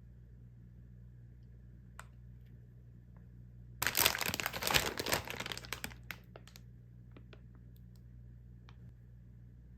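Plastic frozen-food packaging crinkling as it is handled, in one dense burst of about two seconds near the middle, with a few light clicks and taps around it.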